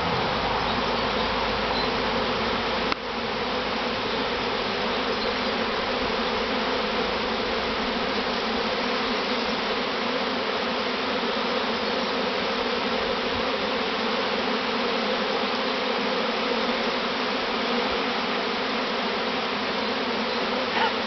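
Dense, steady buzzing of a honeybee swarm in flight, thousands of bees flying close around the microphone as the swarm moves in to settle in a new hive box.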